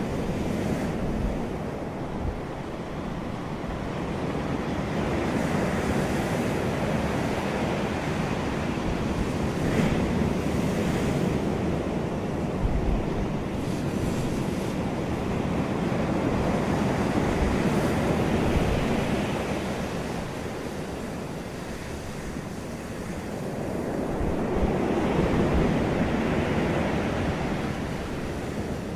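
Ocean surf: waves washing in, the sound swelling and falling away several times.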